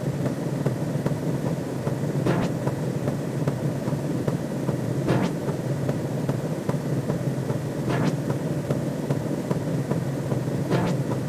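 Looping synthesized sci-fi sound effect: a steady low electronic drone with a whooshing swell about every three seconds and faint regular ticks.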